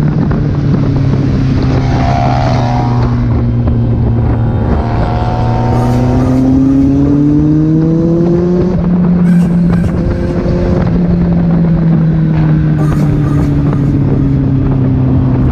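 Kawasaki Z800's inline-four engine running under way, a steady note that rises in pitch over a few seconds around the middle, then drops back and holds steady again.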